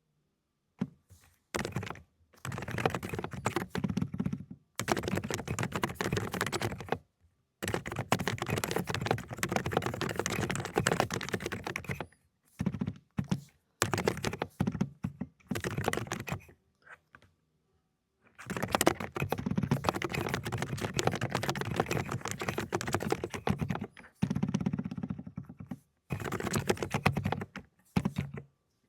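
Fast typing on a Dokgeomi mechanical keyboard with low-noise cotton-candy switches: dense runs of muted keystrokes lasting two to five seconds, broken by short pauses.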